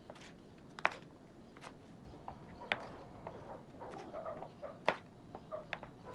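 Kitchen knife striking a cutting board in irregular single strokes while slicing vegetables into julienne strips, with three sharper knocks about two seconds apart.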